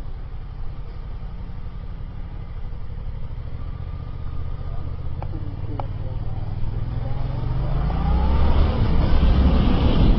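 Motorcycle engine running steadily at low revs, then accelerating over the last few seconds with a rising pitch and growing louder. Two short clicks come about five seconds in.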